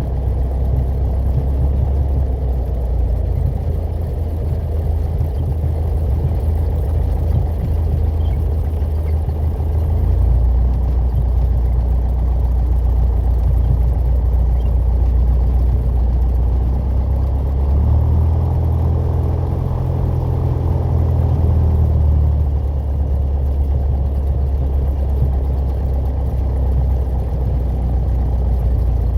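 Piper PA-28 Warrior's piston engine and propeller droning steadily as a light aircraft flies, the note shifting slightly about ten seconds in and again for a few seconds past the middle.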